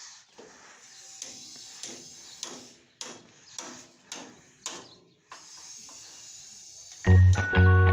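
A series of sharp knocks, roughly two a second, over a steady hiss; music comes in near the end.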